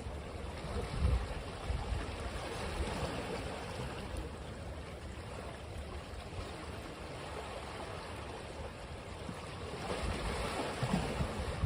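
Ocean waves washing on a beach: a steady rush of surf with low rumbling swells, one building about a second in and another rising toward the end. Wind buffets the microphone.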